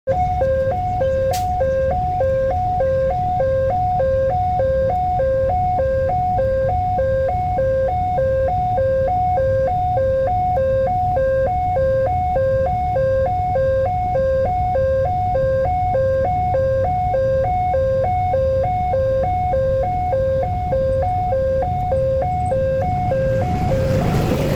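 Railway level-crossing warning alarm sounding a two-tone electronic signal, high and low tones alternating evenly a little more than once a second, over a low rumble of traffic. Near the end a broader rising noise comes in as a train approaches.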